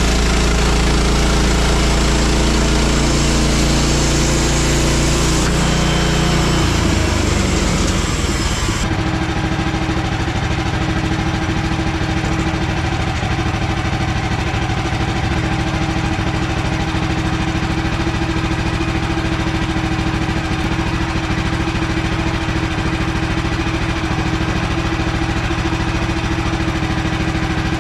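An engine running fast, its pitch dropping about six to eight seconds in, then idling steadily with even firing pulses from about nine seconds on.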